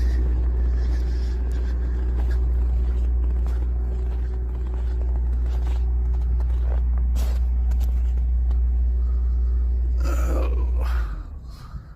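Steady low rumble of a vehicle running, heard from inside, that drops away suddenly about eleven seconds in.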